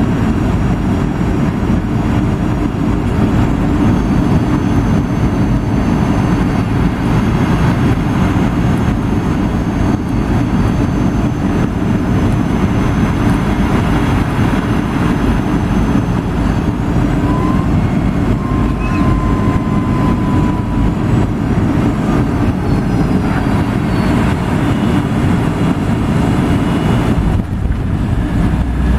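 Boeing 757-200 heard from inside the cabin during landing: a loud, steady rumble of engines and airflow, with faint high whines that shift in pitch about halfway through.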